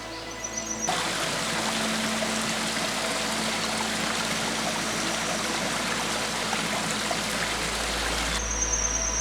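Stream water running, an even rushing that starts abruptly about a second in and cuts off abruptly near the end.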